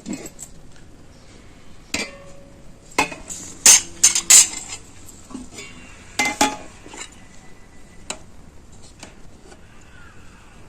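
Pots, pans and utensils clinking and knocking during cooking: scattered sharp clinks, with a quick cluster of the loudest ones about three to four and a half seconds in, a couple more a little later and a last one near the end.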